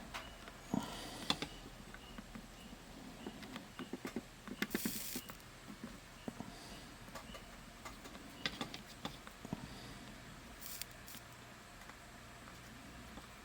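Scattered light clicks and taps of small hand tools and parts being handled on a workbench during soldering work, with a short hiss about five seconds in and another near eleven seconds.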